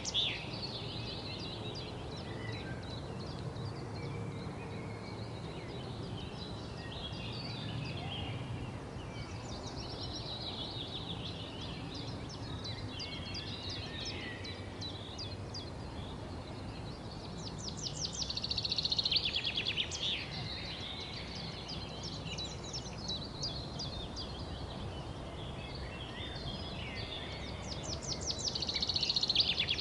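Wild birds chirping and singing together in a continuous mix. A fast, louder trill of rapid notes stands out about two-thirds of the way through and again near the end, over a steady low background rumble.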